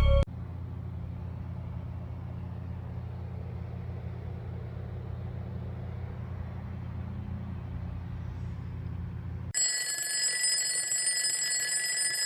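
A steady low hum, then about two-thirds of the way through it cuts out and a loud electronic alarm rings with a steady high tone for about three seconds.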